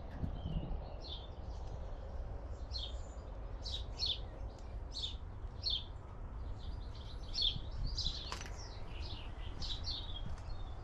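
Small birds chirping, a run of short high calls repeated many times, over a steady low rumble.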